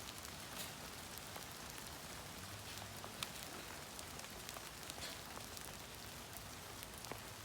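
Rain falling steadily, with many separate drops tapping sharply on nearby surfaces.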